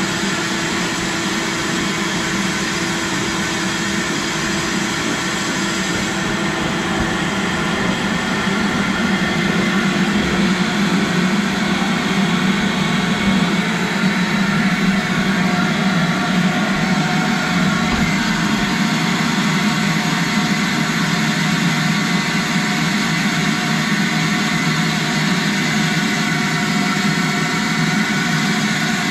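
Vacuum cleaner running steadily as it sucks up wood chips from Forstner-bit drilling, a little louder from about eight seconds in. Its canister is full, so its suction is weak.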